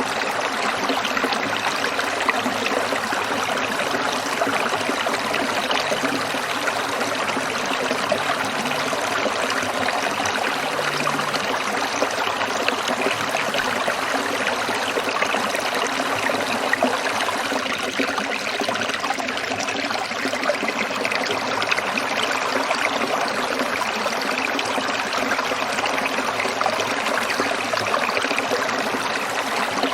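Small stream trickling and splashing over rocks, a steady continuous flow.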